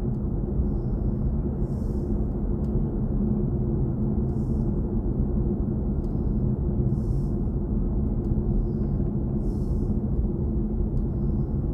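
Steady road and tyre rumble inside the cabin of a BMW i4 M50 electric car while driving.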